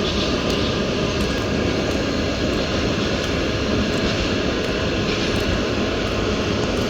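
Loud, steady running noise of a train in the station, with a few faint steady tones over the rumble.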